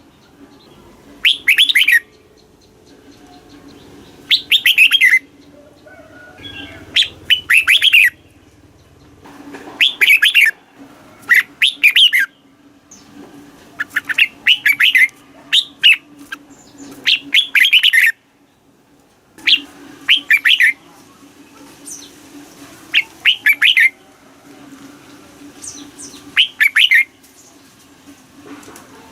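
Red-whiskered bulbul singing: short, loud, bright whistled phrases of quick falling notes, repeated every two to three seconds, sometimes two in quick succession.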